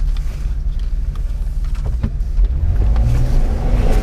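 Off-road 4x4's engine working under load while crawling an obstacle, with a deep steady rumble that revs up about two to three seconds in.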